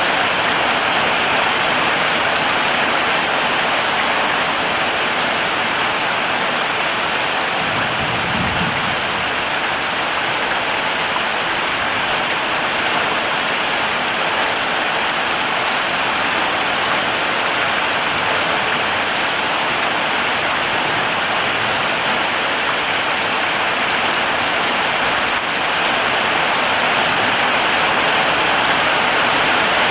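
Heavy rain falling steadily, a dense even hiss, with a brief low rumble about eight seconds in.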